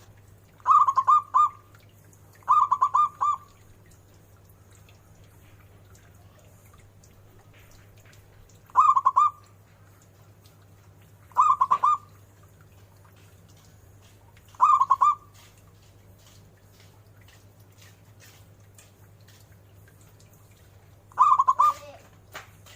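Zebra dove (perkutut) cooing: six short phrases of quick rippling coo notes, spaced irregularly a few seconds apart, over a faint steady low hum.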